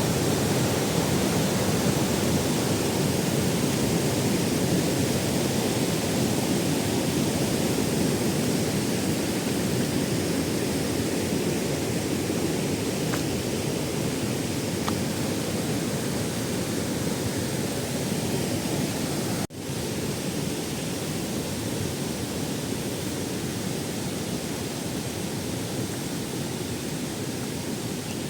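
Kao Chon waterfall, a nine-tiered waterfall, with water rushing in a steady, deep roar. About two-thirds of the way through, the sound cuts out for an instant and then resumes slightly quieter.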